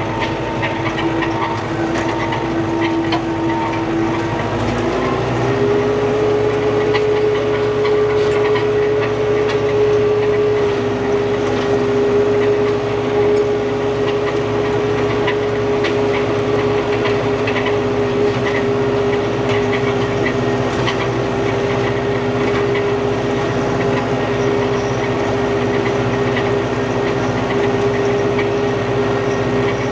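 Old New Holland tractor engine running steadily under work; about five seconds in, the engine speeds up to a higher, steady pitch and holds there.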